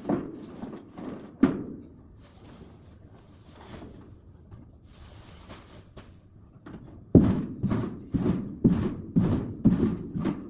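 Split oak firewood logs knocking onto a woodpile as they are stacked: a couple of single thunks at the start, then a quick run of wooden thunks about twice a second from about seven seconds in.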